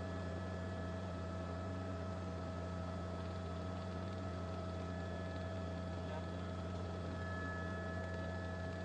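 Steady low electrical hum with a hiss and a few thin, unchanging high tones, with no events or changes.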